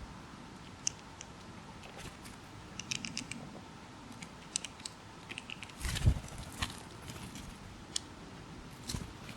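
Small songbirds giving short, high call notes, some in quick clusters, with a few sharp knocks, the loudest about six seconds in.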